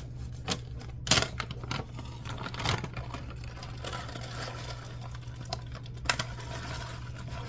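Packaging rustling and crinkling with a few sharp clicks as real bacon pieces are shaken out into a bowl of beaten egg, over a steady low hum.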